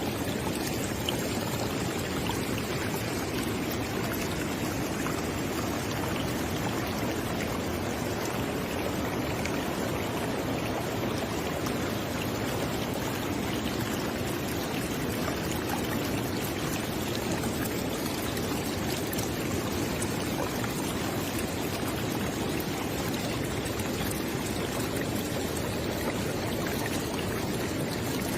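River water flowing steadily, a continuous rushing with fine splashing and burbling.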